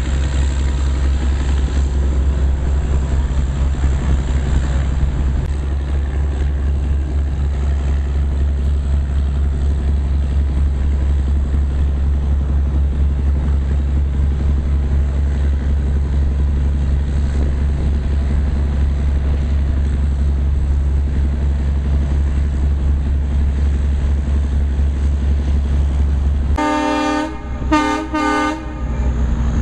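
Narrow gauge passenger train running with a steady low rumble, then near the end the locomotive's horn sounds three short blasts in quick succession.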